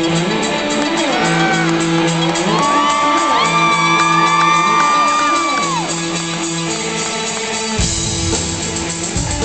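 Live rock band playing an instrumental passage with no vocals: sustained keyboard-like notes under lead lines that slide up and down in pitch, with drums and bass coming in hard near the end.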